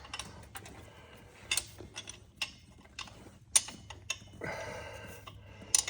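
Metal hand tools clinking: a wrench and socket tapping and clicking against bolts and the engine, in scattered single clicks, with a short scrape about four and a half seconds in.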